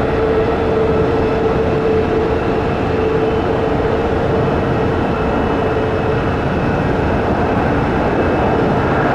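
An Embraer ERJ-140 regional jet's twin Rolls-Royce AE 3007 turbofans running at take-off power: a loud, steady jet roar with one steady droning note held through it.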